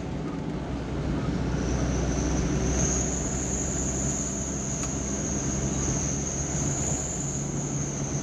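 Vehicle engine droning with road noise while driving, with a steady high-pitched whine that comes in about two seconds in and holds.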